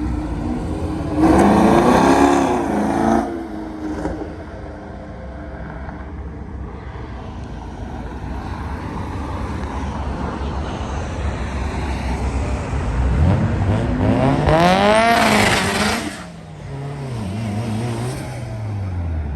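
Cars pulling out and accelerating hard, engines revving. There is a short loud pull about a second in. Near the end, one engine's note climbs steeply, then drops as the car passes and fades away.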